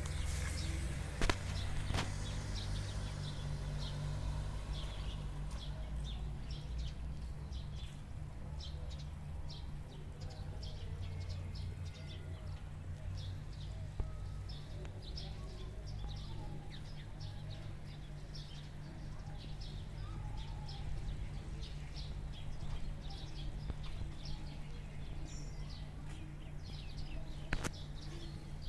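Small birds chirping in quick, repeated short notes over a steady low rumble, with a few sharp clicks.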